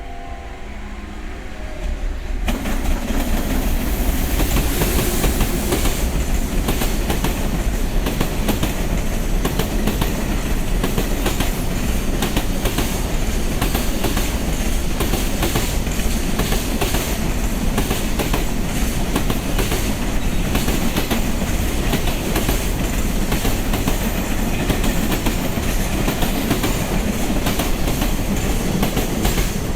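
Freight train running through the station at speed. It comes in abruptly about two seconds in, then the steady rumble of its wheels clatters over the rail joints, with some flange squeal.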